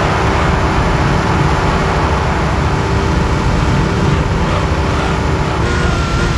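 Porsche 911 (964) air-cooled flat-six running at a steady cruise, under heavy wind and road noise on a car-mounted microphone. Near the end the engine note changes and a new steady tone comes in.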